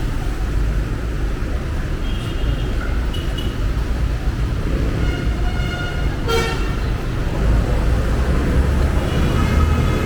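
Steady road traffic running past, with vehicle horns tooting several times, the strongest blast about six seconds in.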